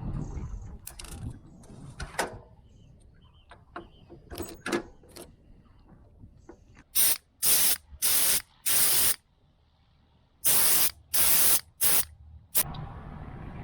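Seven short, loud bursts of hissing spray in two quick groups, each cut off sharply, after a few light clicks and knocks.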